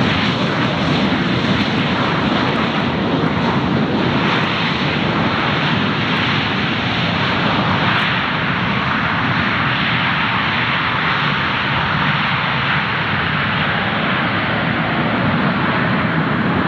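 Jet airliner engines, a loud steady rush of engine noise from an aircraft close to the airport.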